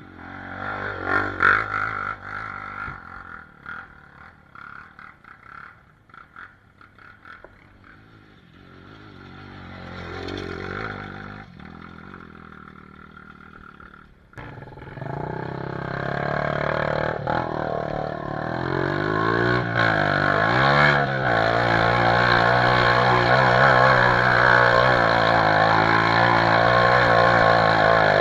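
Dirt bike engines. A bike revs at a distance, swelling and fading twice; then, about halfway through, a close engine comes in loud and runs steadily, its pitch wavering with the throttle.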